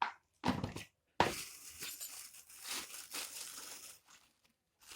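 Plastic packet crinkling and rustling in a dense, uneven run of crackle, as a packet of flour or spice powder is handled and opened.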